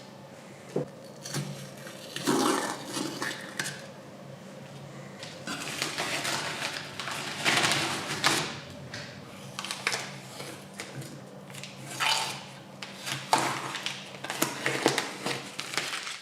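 Hand work on metal motorcycle engine parts: irregular scraping and rubbing with occasional sharp clinks, over a faint steady hum.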